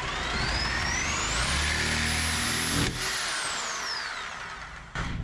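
A power tool's electric motor spinning up with a rising whine, running at full speed for about a second and a half, then winding down with a falling whine after the trigger is let go.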